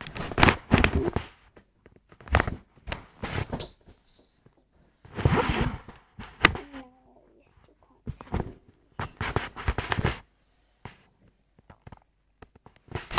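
Rustling and handling noise close to the microphone, in irregular bursts of a second or two separated by short pauses, with a few sharp clicks.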